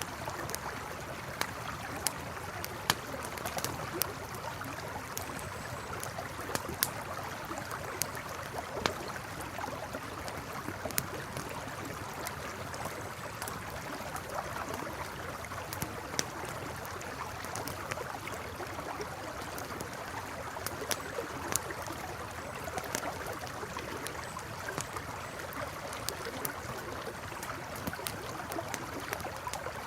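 Campfire crackling, with sharp irregular pops and snaps, over the steady rushing of a flowing river.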